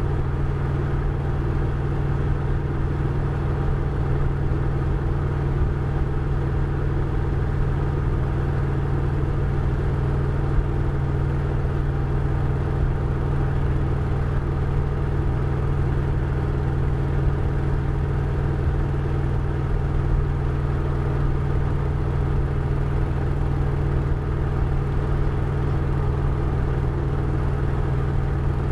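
Harley-Davidson Road Glide ST's Milwaukee-Eight 117 V-twin engine running at a steady, even engine speed, with no revving.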